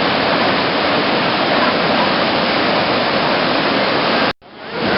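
Steady rushing water. About four and a half seconds in it cuts out for an instant and fades back in.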